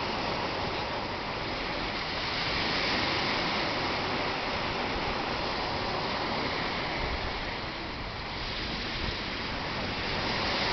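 North Atlantic surf washing on the shore, a steady rush of waves that swells about three seconds in, eases near the eighth second and builds again near the end.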